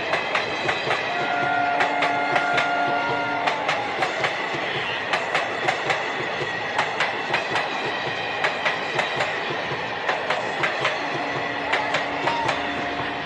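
Train running on the rails, its wheels clicking over the rail joints in a steady rhythm of about two clicks a second. Short steady tones sound twice, about a second in and near the end.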